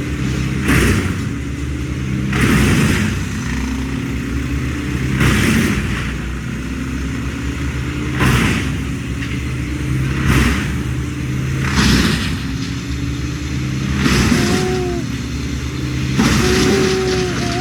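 A motor engine running steadily, with a short, loud, noisy surge every two to three seconds.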